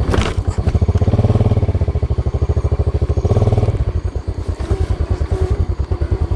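Small motorcycle engine running at low speed with a fast, even firing beat, revving up briefly twice, about a second in and again just after three seconds.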